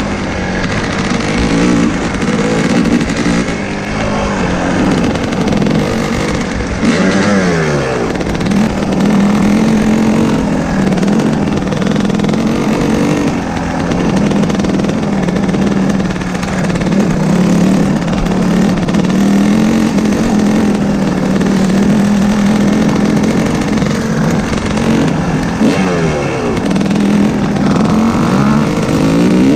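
Off-road dirt bike engine running under way on a trail, its pitch falling and rising with the throttle and gear changes over wind and ground noise.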